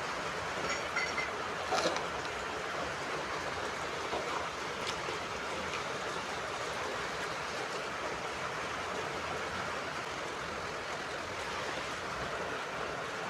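Steady rain falling, an even rushing hiss. A few faint high ticks come about a second in.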